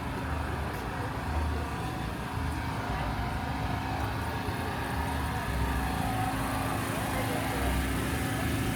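Truck engine idling steadily with a low, slow throb, and people talking in the background.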